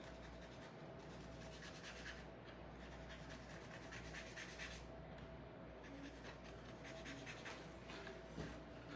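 Faint, irregular scratching and rubbing strokes of paint being applied to a small wooden craft piece.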